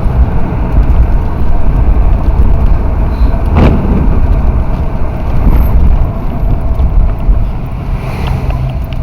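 Car driving: a steady low rumble of engine and road noise, with a single sharp knock about three and a half seconds in.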